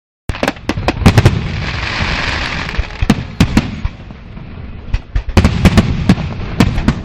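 Fireworks going off: a rapid, irregular run of loud bangs with a rushing hiss between them. The bangs thin out for a moment in the middle, then come thick again.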